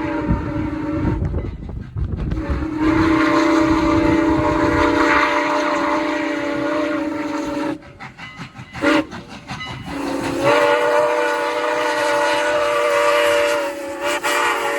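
A locomotive's multi-note chime sounding the grade-crossing signal: a blast ending in the first second, then a long blast, a short one and a final long one. There is a low rumble of the train rolling at the start.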